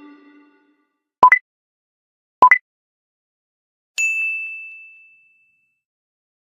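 Electronic sound effects over dead silence: two quick rising two-note blips about a second apart, then a single bell-like ding that rings out and fades over about a second.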